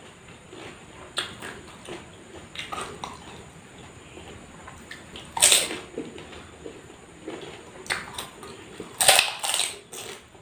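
Close-miked eating sounds: wet chewing and slurping, with louder crunching or slurping bursts about halfway through and again near the end.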